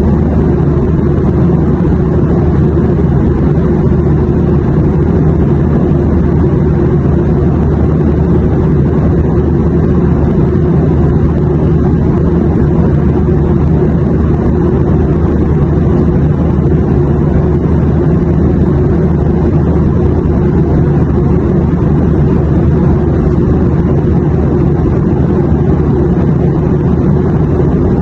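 Airplane cabin noise in flight: a steady, unchanging low drone with no breaks or events.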